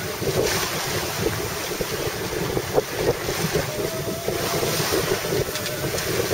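Wind buffeting the microphone and water rushing past a sailboat under sail, a steady rushing noise.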